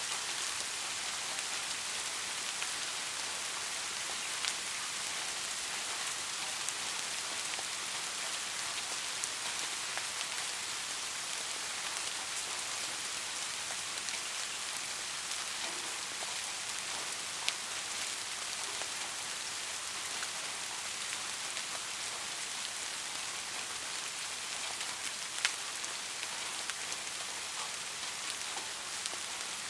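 Steady rain falling on a surface, an even hiss with scattered individual drops ticking sharply on top of it, a few of them louder.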